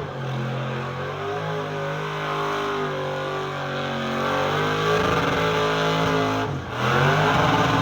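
A truck engine running at a steady pitch, then dropping off briefly about six and a half seconds in before revving up again with a rising pitch.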